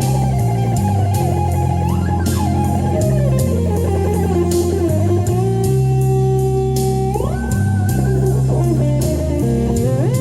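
Electric guitar lead played over a blues-rock backing track with bass and drums, holding long notes with bent or slid pitches rising about two seconds in, around seven seconds and near the end.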